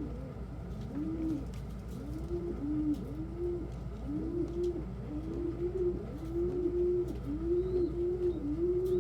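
Domestic pigeons cooing: a string of rising-and-falling coos that come closer together and get louder toward the end, over a steady low hum.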